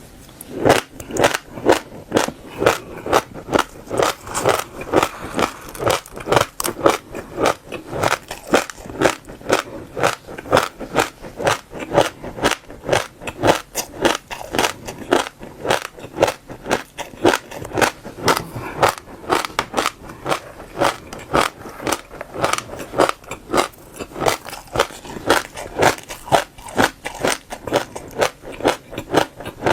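Passion fruit seeds crunched between the teeth in close-up: rapid crisp crunching and crackling, about three crunches a second, kept up without a break.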